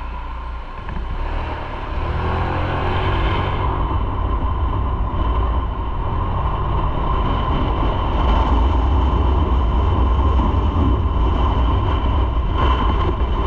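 Motorcycle engine running under way with road and wind noise, picking up speed about two seconds in and then holding steady.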